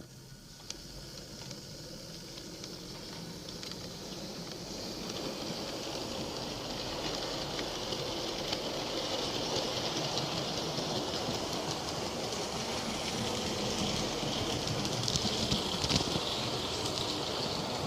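Hornby OO-gauge model train, the Tornado locomotive pulling its coaches along the track, with a steady running hiss and scattered clicks of the wheels. It grows gradually louder as it comes nearer.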